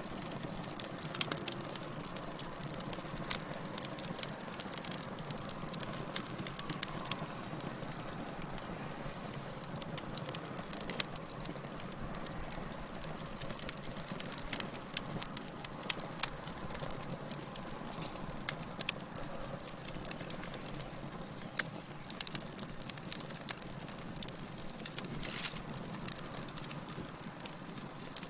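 Fire crackling: irregular sharp pops and snaps over a steady low hiss.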